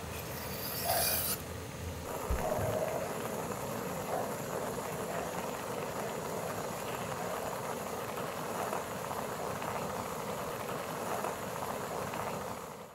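Food sizzling on a hot round griddle pan over a camping gas stove: chopped vegetables hit the bubbling pan about a second in with a loud, sharp hiss, then a steady sizzle as the vegetables and beef slices fry.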